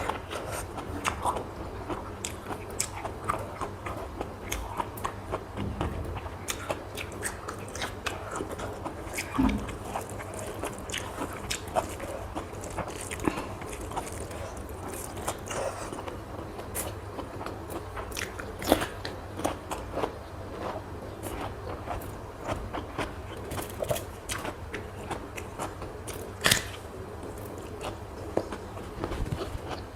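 A person eating close to the microphone: steady chewing with frequent short, sharp bites and wet clicks, a few of them louder than the rest.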